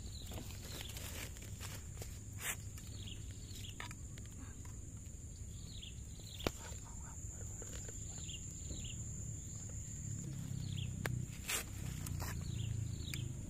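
Birds giving short falling chirps again and again, over a steady high-pitched whine. A few sharp clicks and soft rustles come from a mesh insect net and a plastic bottle being handled, the loudest click about halfway through.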